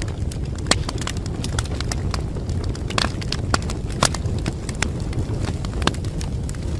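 Wood fire burning in a fireplace: a steady low rumble with frequent sharp crackles and pops, a few louder snaps around three to four seconds in.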